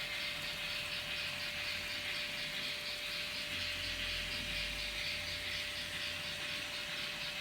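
N-gauge model trains running round the layout: a steady, light running rattle with a fast, even rhythm and a constant motor hum, with a brief low rumble about halfway through.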